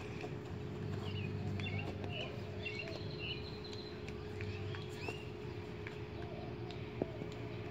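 Small birds chirping in short, curling calls over a steady low hum, with one light tap near the end.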